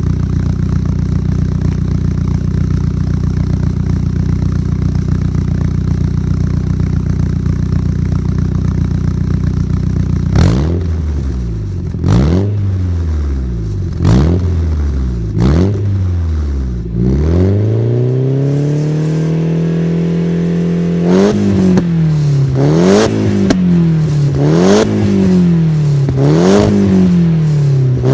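Nissan Silvia S15's SR20DET turbocharged 2.0 L inline-four, heard through a stainless aftermarket muffler with a baffle fitted, idling steadily for about ten seconds, then revved in a series of free-revving blips. Each blip rises and falls in pitch with a sharp crack near its top. Partway through, the engine is held at a higher steady rev for a few seconds, then given quick, regular blips about every second and a half.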